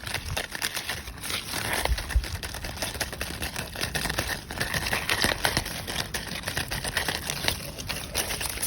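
Dense crackling and rustling made of many small, quick clicks.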